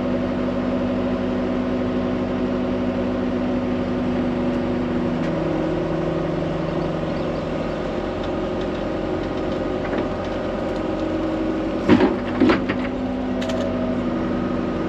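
Heavy-equipment diesel engine running steadily while towing a stuck machine out of the mud; its note shifts about five seconds in as the load changes. Two sharp clanks come about twelve seconds in.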